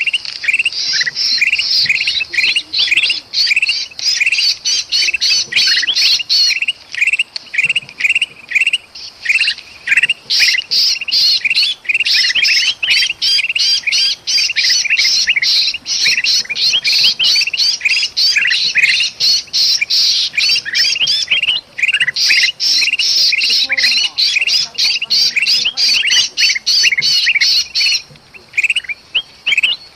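Bulbuls calling in a dense, rapid run of harsh chattering squawks and chirps, with only short lulls. These are the agitated 'ribut' calls of golden bulbuls mixed with the distress cries of a trapped bulbul, the kind of call used to lure birds in.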